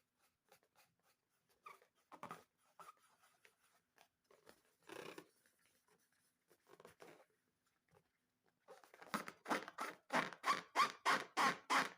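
Slime being squeezed and poked, giving scattered short wet clicks and squishes. From about nine seconds in it turns into a fast, louder run of squelches, about three or four a second.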